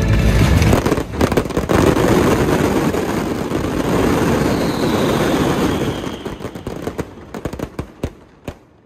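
A string of firecrackers going off in a dense crackle, then thinning to scattered single pops and dying out near the end.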